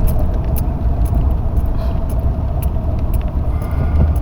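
Car driving, heard from inside the cabin: a steady low engine and road rumble with scattered light ticks and rattles.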